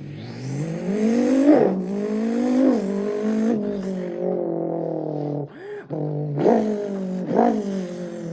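Man's voice imitating a Dodge Viper ACR's engine. The revs rise and drop back about three times in the first few seconds, like upshifts, then hold steadier and are broken by two sharp rev blips near the end.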